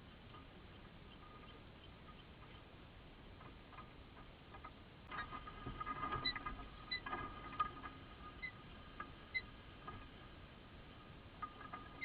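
Small birds chirping faintly: short high peeps and soft chittering, clustered in the middle of the stretch, consistent with a mother bird and her chicks.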